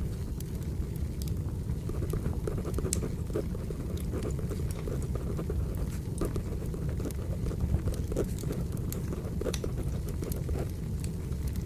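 Wood fire burning, crackling with irregular small pops over a steady low rumble, mixed with the scratching of a pencil writing on paper.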